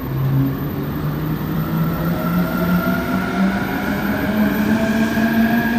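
JR East E259 series electric train's traction motors and inverters whining, the pitch rising slowly and steadily as the train picks up speed, over a low rumble of the running gear.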